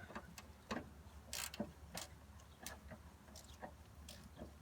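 Hand ratchet clicking in short, irregular strokes as a 14 mm bolt on the tension rod mount is worked loose with a socket and extension.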